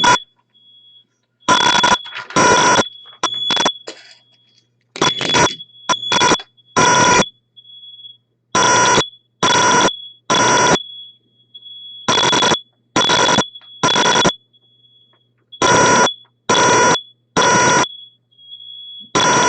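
Fire alarm sounding loudly in repeated sets of three beeps, one set about every three and a half seconds, with a thin high tone lingering between the beeps.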